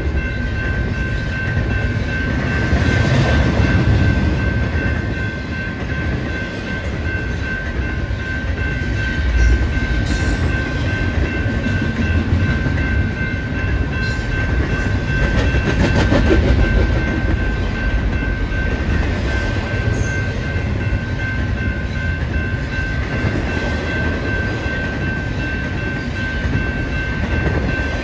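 BNSF double-stack container freight train rolling past a grade crossing: a steady rumble with clatter of wheels over the rails. Over it, the crossing warning bell rings in an even, rapid pulse.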